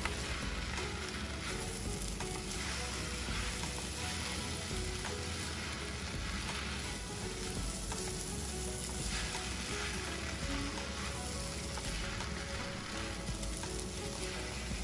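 Udon noodles and barbecue pork sizzling steadily in oil in a nonstick pan as they are tossed with chopsticks.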